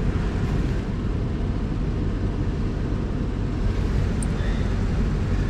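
Steady low vehicle rumble of engine and road noise, heard from inside the cab.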